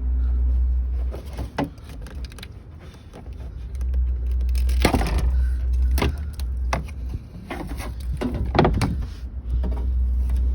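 Plastic cowl panel at the base of a car's windshield being pulled up by hand, with scattered clicks, knocks and creaks as it comes loose, over a steady low rumble.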